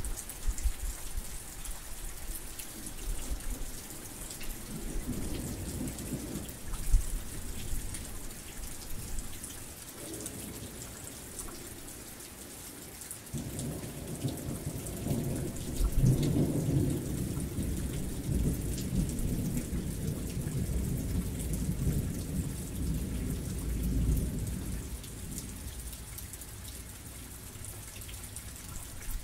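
Heavy rain falling steadily, with low thunder rumbling: a short roll a few seconds in, then a longer roll starting about halfway through that peaks soon after and fades out near the end.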